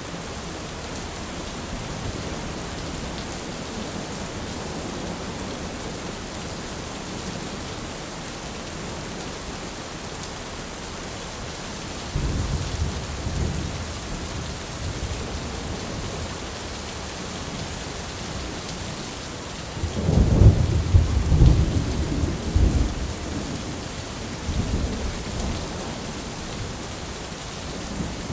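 Thunderstorm: steady rain hissing throughout, with low thunder rumbling in from about twelve seconds in. A louder roll of thunder follows about two-thirds of the way through, then a weaker one.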